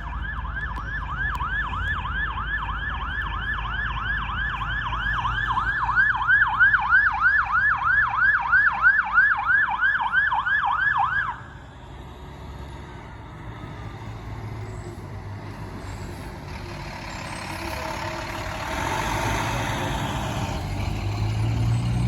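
Fire truck siren on a fast yelp, sweeping up in pitch about three times a second, cutting off suddenly about halfway through. After it stops, a heavy truck's engine rumbles and grows louder near the end.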